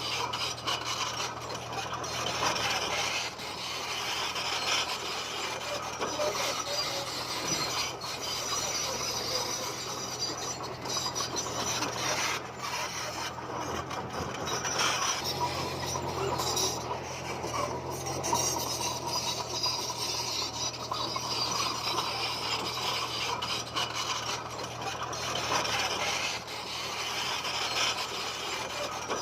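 Komatsu D20P bulldozer working stone fill: a steady grinding and scraping of rock under the blade and tracks over the low, steady drone of the diesel engine, which strengthens about halfway through.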